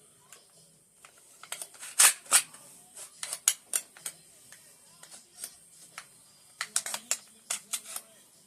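Scattered sharp clicks and clacks of AK-47 rifle parts being handled and fitted, with a louder cluster about two seconds in and another near the end.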